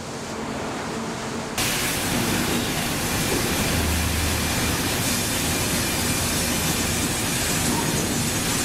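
Steady, dense noise of a sawmill head rig and log carriage at work, breaking a log down. It steps up suddenly about one and a half seconds in and then runs level.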